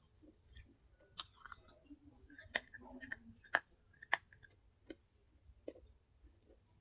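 Pieces of baked clay pot being bitten and chewed close to the microphone: irregular sharp crunches and snaps, about half a dozen of them, with soft wet mouth sounds in between.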